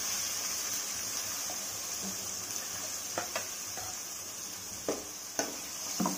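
Ground tomato paste sizzling steadily as it fries in tempered oil in a metal kadai while a spoon stirs it. In the second half the spoon knocks sharply against the pan a few times.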